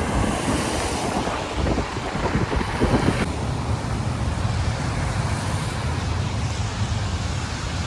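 Wind buffeting the microphone, a low rumble under a steady rush of noise; the sound changes abruptly about three seconds in.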